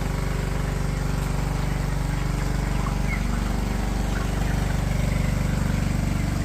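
A small engine running steadily at a constant speed, a low, even hum.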